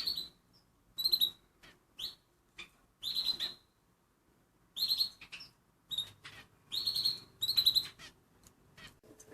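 Canaries chirping: short, high, thin calls, some single and some in quick strings of several, coming at irregular intervals about a second apart.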